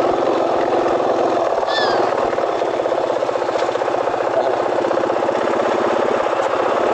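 KTM 500 single-cylinder four-stroke dual-sport motorcycle engine running steadily as it is ridden, with an even pulsing throb. A short high chirp sounds about two seconds in.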